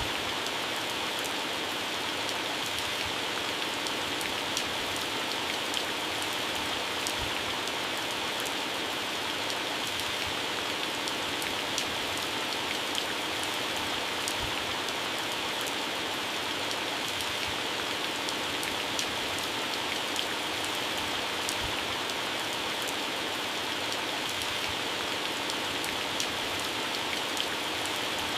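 Heavy rain falling steadily on garden plants and grass: a dense, even hiss with many individual drops ticking on leaves.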